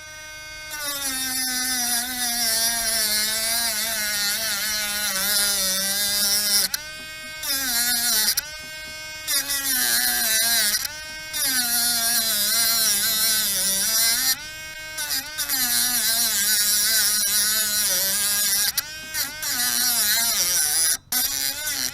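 Small high-speed rotary tool with a cut-off wheel grinding through the metal protective coil of a door-release cable: a motor whine that dips and recovers in pitch as the wheel bites, with a hissing grind over it. The tool is lifted off briefly several times.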